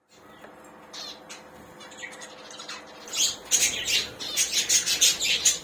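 Budgerigars chattering with faint chirps at first, then loud, rapid squawking calls from about three seconds in.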